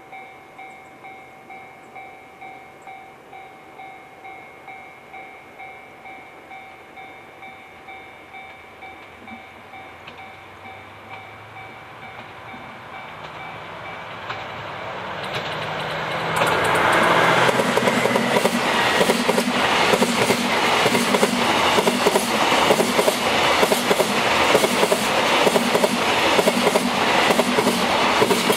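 Level crossing warning bell ringing about twice a second while a DF200 diesel-electric locomotive approaches, its engine note growing louder. About halfway through, the locomotive and a long string of container wagons pass close by, and the wheels clatter rhythmically over the rail joints.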